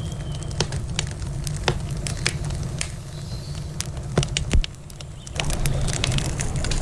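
Wood campfire crackling: irregular sharp pops and snaps over a steady low rush of flowing river water. About five seconds in, the rush grows louder and fuller.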